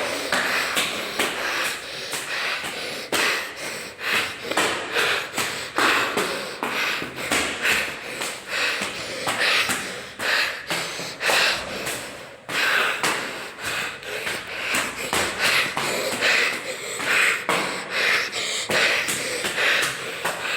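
A person breathing hard and fast while climbing stairs, a breath about every second. Quick footsteps tap on the steps in between.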